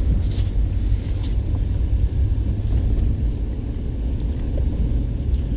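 Jeep being driven, heard from inside the cabin: a steady low rumble of engine and road noise.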